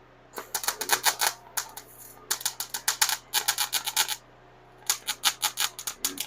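MIG welder with argon-CO2 shielding gas tack-welding stainless steel exhaust tubing: a fast, sharp crackle in about four short bursts, each a second or two long with brief pauses between.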